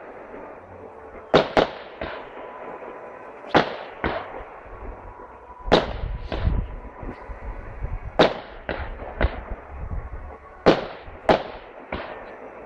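Fireworks display: aerial shells bursting in a series of sharp bangs, mostly in close pairs about every two seconds, with a low rumble between them around the middle.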